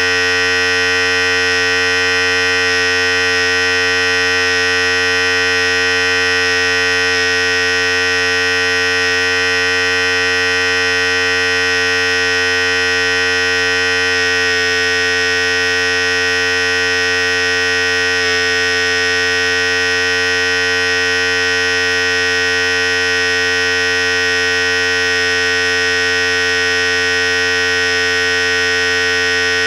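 Philips Series 5000 electric hair clipper running with a steady, even buzz.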